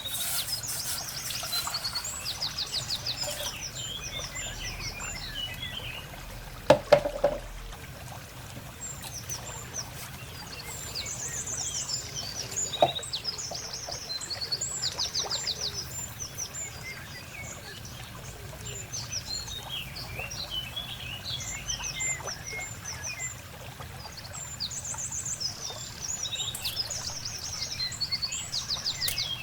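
Small birds chirping and singing throughout in short, repeated high trills. Twice a sharp knock cuts through, the loudest a double knock about seven seconds in.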